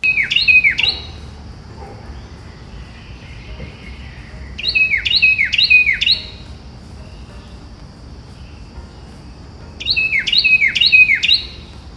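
A bird calling in three bursts about five seconds apart, each a run of several quick notes that slide sharply downward in pitch, over a steady high hiss.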